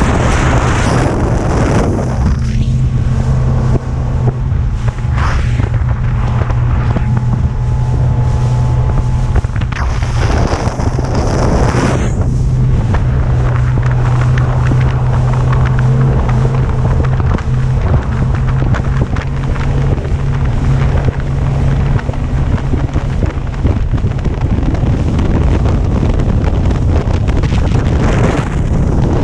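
Bass boat's outboard motor running steadily at speed, with heavy wind buffeting the microphone. The engine hum fades out about three-quarters of the way through, leaving wind and rushing water.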